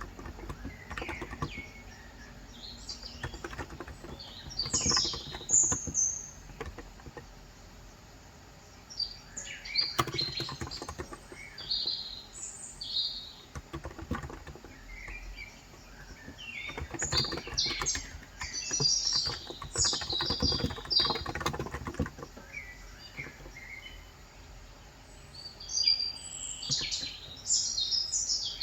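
Birds chirping outside, with bursts of fast typing on a COX Endeavour electro-capacitive (35 g, tenkeyless) keyboard: soft, rapid key clicks in runs of a few seconds with short pauses between.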